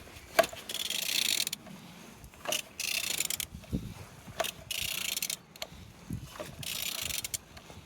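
Peugeot/Citroën TU3JP (KFV) four-cylinder engine being turned over by hand with a wrench on the crankshaft: four strokes about two seconds apart, each a sharp click followed by a brief rasping hiss. The engine turns freely and is not seized.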